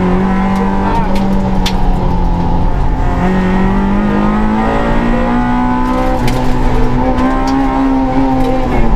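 Suzuki Swift rally car's engine heard from inside the cabin, holding steady, then pulling up through the revs under acceleration for several seconds before dropping back sharply near the end.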